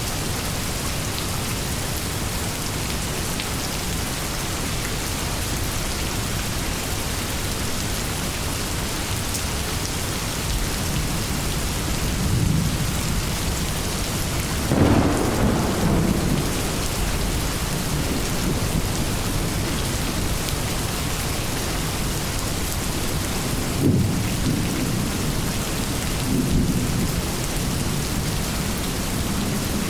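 Steady rain pouring down, with several rolls of thunder rumbling through it, the loudest about halfway through.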